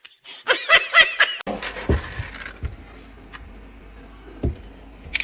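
A springy cartoon 'boing' sound effect, several quick rising-and-falling pitch sweeps, cut off abruptly about a second and a half in. Then steady room hiss with a few soft low thumps.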